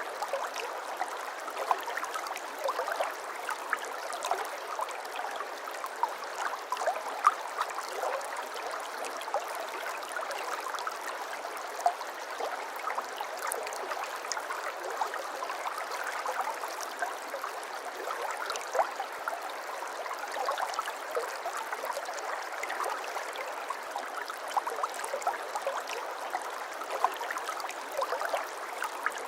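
Water flowing and trickling steadily, a gentle babbling with many small splashes and gurgles.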